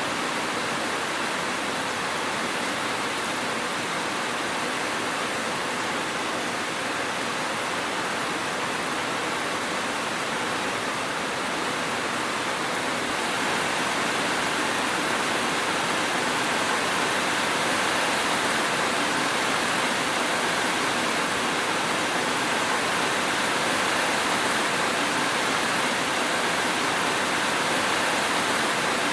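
Steady heavy rain, a dense even hiss without single drops standing out; it grows slightly louder about halfway through.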